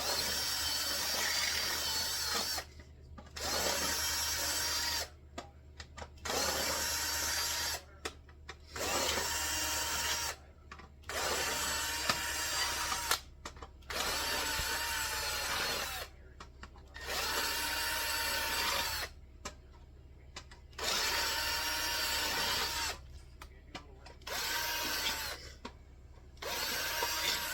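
Handheld power drill running in about a dozen short bursts of a second or two each, with brief pauses between, as it drills into the seat's metal. The motor's whine sags slightly in pitch under load in some bursts.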